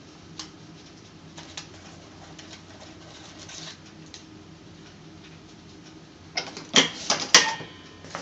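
Plastic clicks and clacks of a Top-O-Matic hand cigarette-rolling machine being worked. A few light clicks come early, then a quick run of loud, sharp clicks and snaps about six and a half to seven and a half seconds in.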